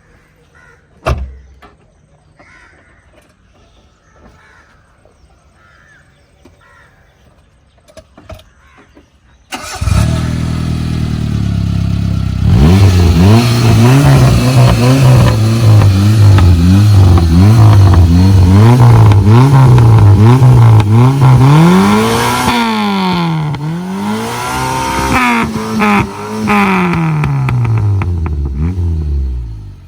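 Maruti Suzuki Esteem's 1.3-litre four-cylinder petrol engine running through a mildly tuned exhaust, coming in loud about a third of the way in and revved over and over, quick short revs at first and then a few bigger, slower revs near the end. Before it there is one short knock about a second in.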